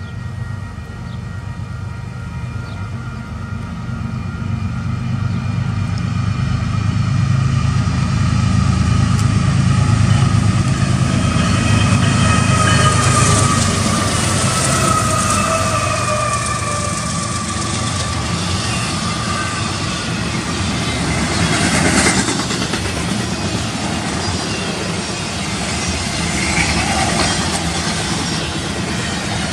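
Union Pacific diesel locomotives, a GE ET44AC leading, passing at track speed: the low engine rumble builds over the first several seconds, and the wheels clatter over the rails as the train goes by. Steady high tones sound in the first half, and some tones slide down in pitch in the middle.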